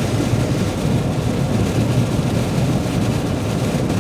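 Steady engine and road noise of a vehicle driving at highway speed, heard from inside the cab, mostly a low rumble.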